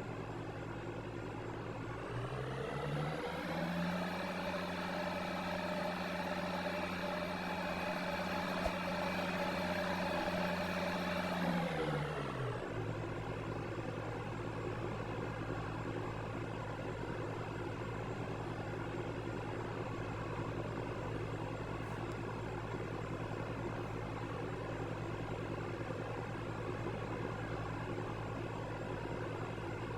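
Candy washing machine's drum motor whining. The pitch climbs as the drum speeds up about two seconds in, holds for several seconds, drops back to a lower steady speed near twelve seconds, then starts climbing again at the very end.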